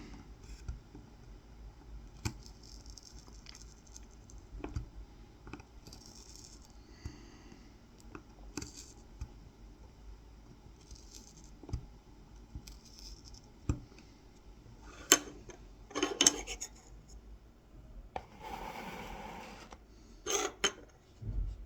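Kolrosing knife scoring fine lines into the wood of a honey dipper: faint scratching and light ticks of the blade, with a few sharper clicks past the middle and a longer scrape later on.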